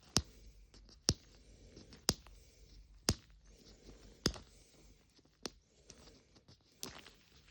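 Sharp plastic clicks about once a second, slowing slightly, over faint rustling: hands working at a Mini Brands plastic capsule ball to open it.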